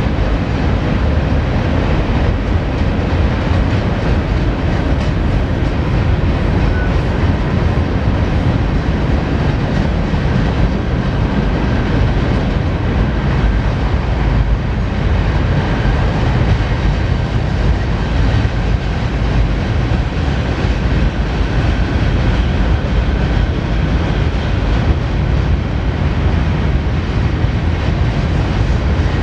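Freight cars of a long CSX mixed freight train rumbling steadily across a steel truss railroad bridge.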